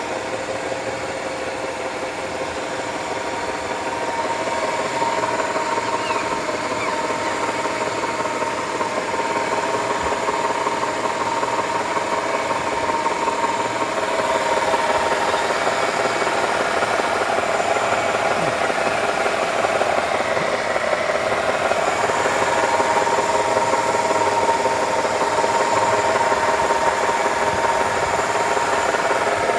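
Nissan Tiida CVT whining steadily while the HR15 engine idles in drive and the drive wheels spin freely, a continuous high whine over the idle, growing a little louder about four seconds in. The mechanic traces the groan to internal damage in the CVT, since stopping each wheel in turn doesn't change it.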